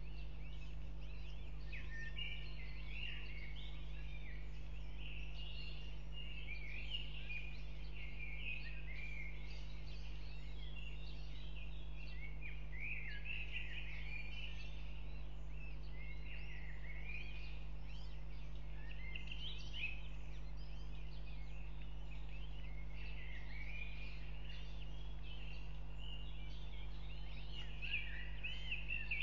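Many small birds chirping and calling continuously in high, varied notes, over a steady low hum.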